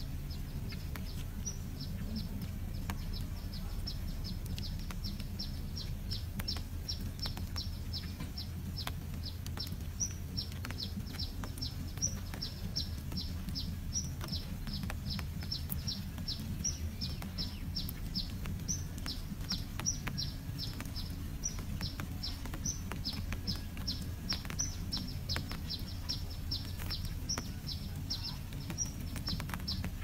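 A small bird chirping steadily: short, high, slightly falling chirps repeated about two to three times a second, over a low steady hum.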